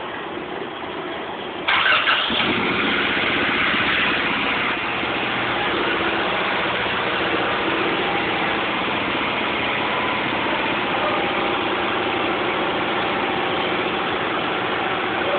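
Turbocharged Acura Integra four-cylinder engine starting: it fires about two seconds in, runs a little louder for a few seconds, then settles into a steady idle.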